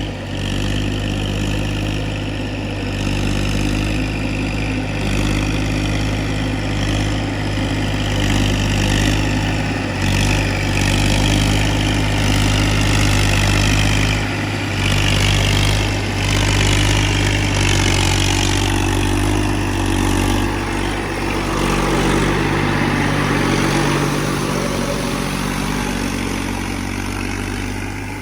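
Tafe tractor's diesel engine running steadily, working a rotavator through a paddy field.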